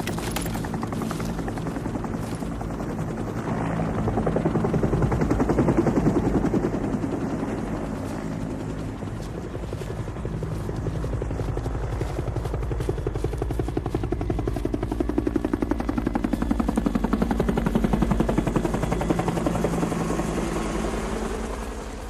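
Helicopter rotor blades chopping fast and steadily over a low engine drone, as the helicopter hovers. It swells louder twice, then fades near the end.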